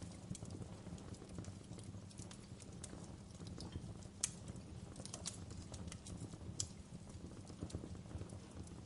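Fireplace fire crackling: a steady low rumble with irregular pops and snaps, two sharper pops standing out about four and six and a half seconds in.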